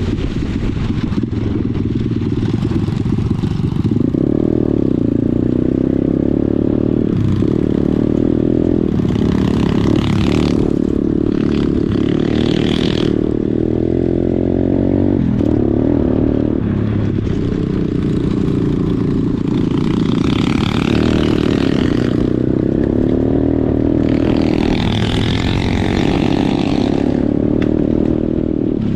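Pit bike engine running as it is ridden, its pitch rising and falling with the throttle. Stretches of louder, higher noise come in about ten seconds in and again past twenty seconds.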